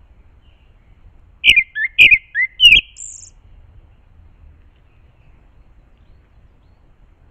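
A bird calling close by: a quick run of about five short, loud chirping notes about a second and a half in, then one thin high note.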